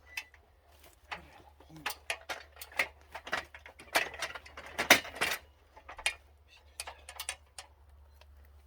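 Irregular knocks and clatter of timber and tools being handled, a dozen or so sharp hits in uneven rhythm that thin out near the end.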